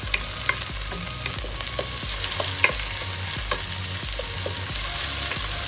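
Chopped tomatoes, green chillies, onion and garlic sizzling in hot oil in a pot while a wooden spatula stirs them, with scattered scrapes and taps of the spatula against the pot.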